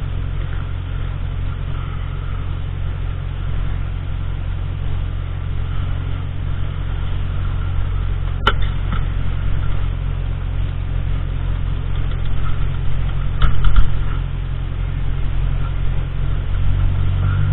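Car engine running steadily with a low hum. A sharp click comes about halfway through, and a few knocks near the end.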